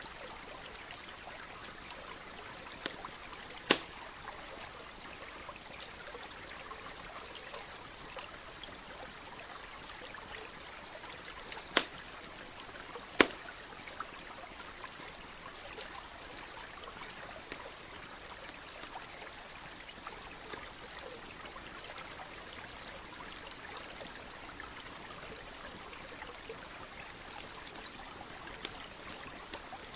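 Campfire crackling, with scattered sharp pops, three of them loudest at about 4, 12 and 13 seconds in, over the steady trickle of a stream.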